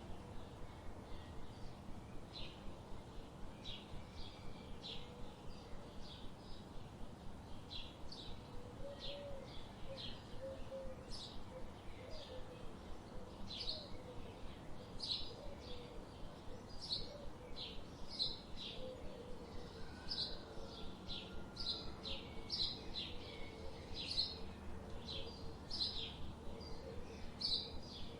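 Forest ambience of birds chirping: short high chirps come about twice a second throughout over a steady low background rush. A fainter, lower warbling call joins about eight seconds in.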